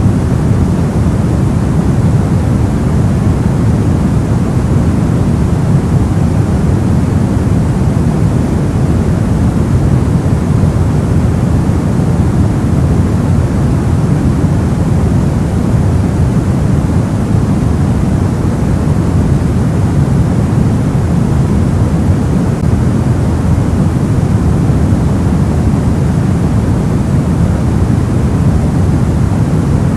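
Steady soft white noise for sleep: an even, unbroken rushing noise weighted toward the low end, with the highs rolled off and no changes.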